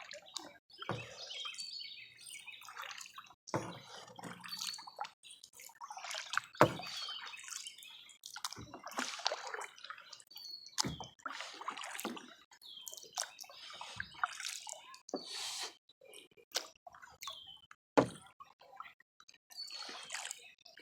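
Kayak paddle dipping and pulling through water in repeated strokes, with water dripping and splashing off the blades, and a few sharp knocks.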